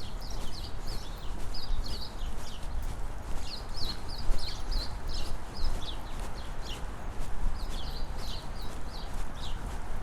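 Small birds chirping in short, quick clusters of high notes every second or two, over brisk footsteps and a steady low rumble.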